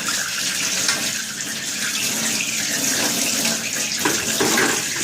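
Tap water running steadily into a sink while fridge shelves and trays are washed, with a little clatter of the items being handled near the end.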